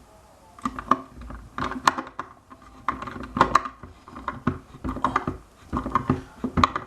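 Phillips screwdriver turning threaded screws into a logic board's heat-sink plate, with irregular short bursts of small clicks and scrapes about once a second.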